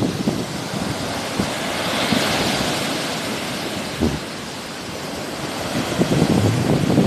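Sea waves washing onto the shore, one wash swelling to a hiss a couple of seconds in and then fading, with wind buffeting the microphone in low gusts.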